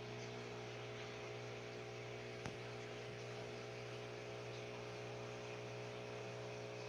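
1987 SMC Laguna 36-inch ceiling fan running with a steady motor hum, with one short click about two and a half seconds in.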